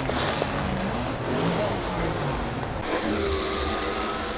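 Car engines running at a car meet, a steady low rumble with people talking in the background.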